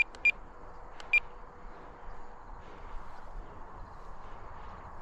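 Short, high electronic beeps from an RC radio transmitter, typical of trim being stepped: two close together at the start and a third about a second later, over a faint steady background noise.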